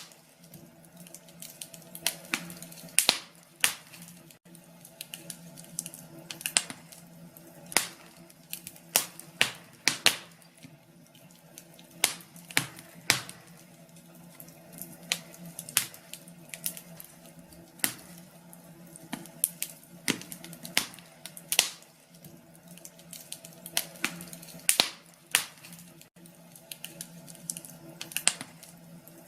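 Wood fire crackling, with sharp pops at irregular intervals over a soft steady hiss and a faint low hum.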